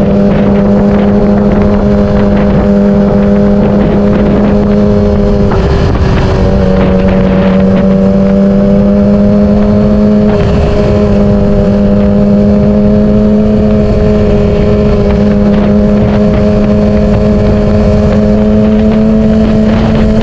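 Yamaha R6 600cc inline-four sportbike engine running under way at a nearly steady pitch, with short breaks and slight pitch shifts about five and a half and ten seconds in. Wind hiss on the camera microphone lies under it.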